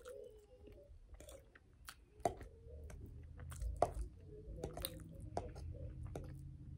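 Close-miked wet chewing of loaded macaroni and cheese, with a metal fork clicking and scraping against the plate several times.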